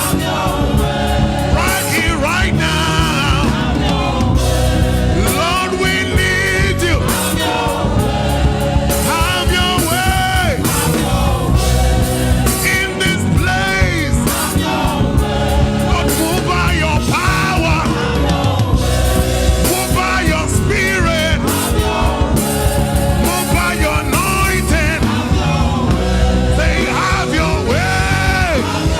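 Gospel choir singing with a loud live band and a steady drum beat.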